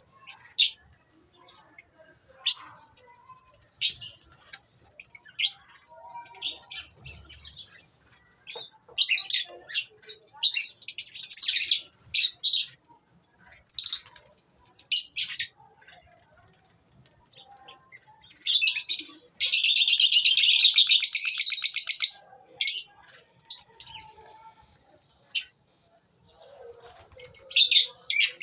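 Lovebirds chirping in short, sharp, high-pitched calls, with a stretch of about three seconds of rapid continuous chattering about two-thirds of the way through.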